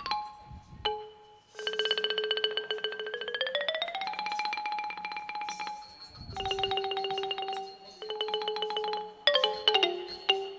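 Ranat, the Thai wooden xylophone, played with rapid repeated mallet strokes that sustain each note as a tremolo. The first run climbs in pitch partway through, a second run holds a lower note, and single struck notes follow near the end.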